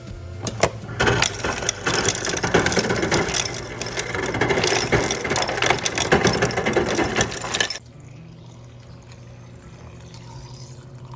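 Water running into a cup, a loud rushing flow that stops abruptly about eight seconds in, leaving a steady low hum.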